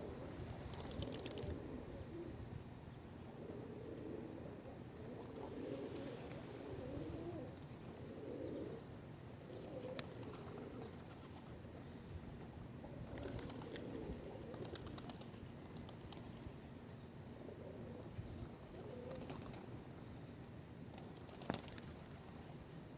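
A flock of feral pigeons cooing over and over, with short bursts of wing flapping a few times as birds take off or land.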